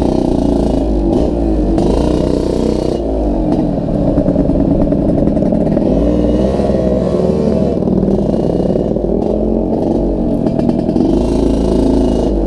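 Yamaha RX-King two-stroke single-cylinder motorcycle engine running under way, its pitch rising and falling repeatedly with the throttle. The exhaust gives a jingling rattle, which the owner calls severe.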